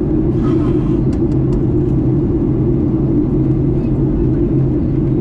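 Steady, loud cabin noise of a Boeing 737 MAX 8 in flight: a constant rumble of its CFM LEAP-1B turbofan engines and airflow, with a low steady hum running through it.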